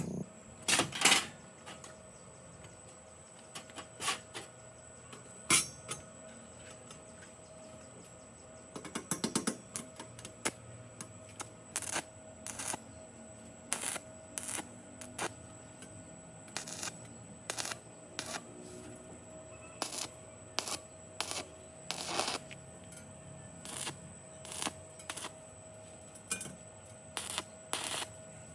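A series of sharp clicks and taps, irregularly spaced, over a faint steady hum.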